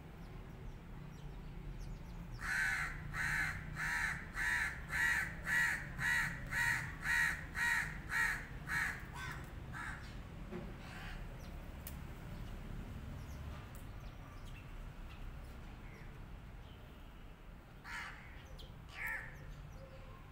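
A bird cawing: a run of about a dozen caws, roughly two a second, then two more caws near the end.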